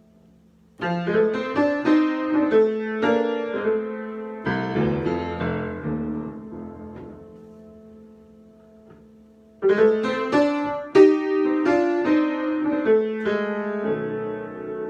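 Solo piano improvising: a phrase of chords and notes starts about a second in and dies away into a lull, then a second phrase starts just under ten seconds in, with a strong accent about a second later.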